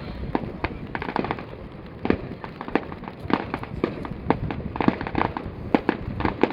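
Aerial fireworks going off: a quick irregular run of sharp bangs and crackles, several a second, over a low rumble.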